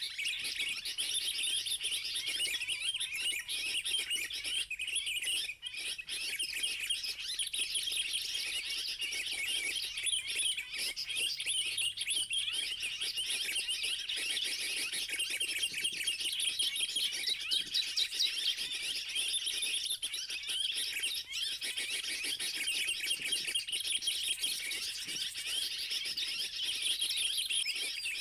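Bar-winged prinia (ciblek) calls: fast, high-pitched chirping that runs on without a break, the call used to lure ciblek in.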